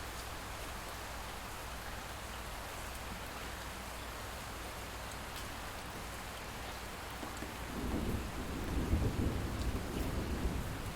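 Steady light rain, then about two-thirds of the way in a distant roll of thunder builds and rumbles on with uneven swells.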